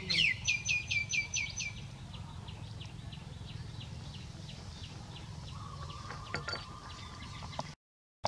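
Bird chirping: a quick run of loud, falling chirps at the start, then fainter falling chirps repeating about three times a second. A faint steady whine joins near the end, and the sound drops out briefly just before the end.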